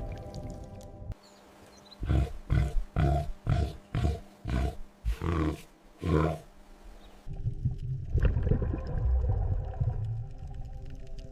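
An animal gives a series of about eight short, loud, harsh calls, roughly half a second apart, between stretches of background music.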